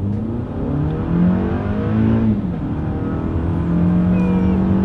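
2021 Lexus ES 250's naturally aspirated 2.5-litre four-cylinder engine accelerating hard, heard from inside the cabin. The engine note rises steadily, drops sharply at an automatic upshift about two and a half seconds in, then climbs again.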